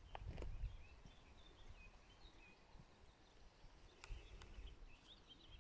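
Faint birdsong: short, scattered chirps and twitters. A low rumble comes near the start and again about four seconds in, with a few faint clicks.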